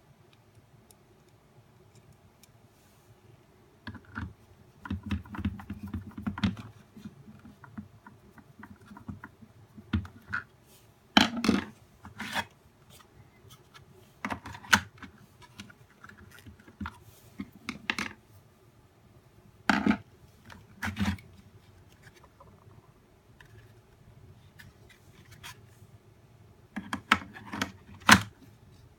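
Plastic parts of a nail dust collector being handled while it is taken apart or put together: a few seconds of scraping and rubbing, then scattered sharp clicks and knocks, the loudest near the end.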